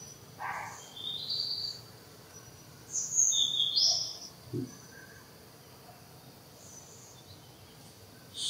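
Outdoor ambience: a bird gives short, high whistled chirps, once about a second in and louder, stepping up and down in pitch, around three to four seconds in, over a faint steady hum of insects.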